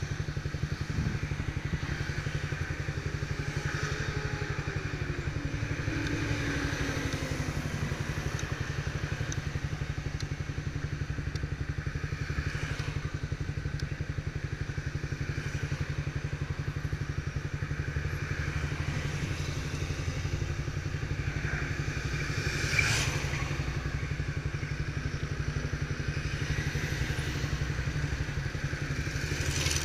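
Motorcycle engine running steadily with a low, fast, even pulse, with one sharp knock about 23 seconds in.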